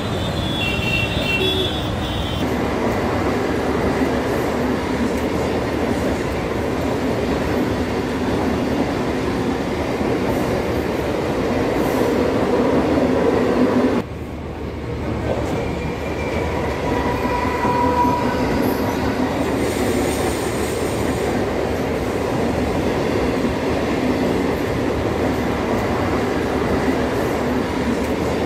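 Mumbai suburban local train running, heard from inside the coach: a steady noise of wheels and carriage. About halfway through the level drops suddenly, then builds back up, and a short high tone like a wheel squeal comes about two-thirds of the way in.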